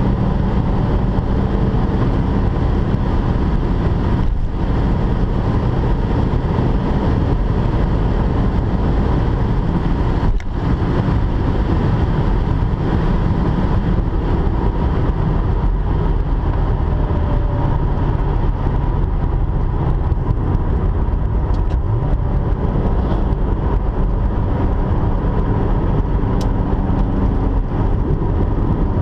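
A 2005 Corvette's LS2 6.0-litre V8 running hard at highway speed, heard from inside the cabin as a steady, loud low rumble mixed with road and wind noise. The sound drops out briefly twice, about four and ten seconds in.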